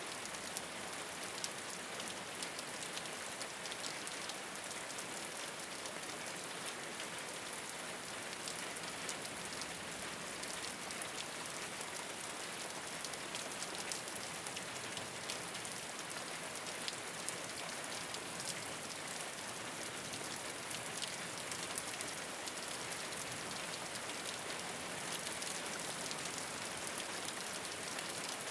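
Steady rain falling on a rooftop, an even hiss scattered with the ticks of individual drops striking the surface.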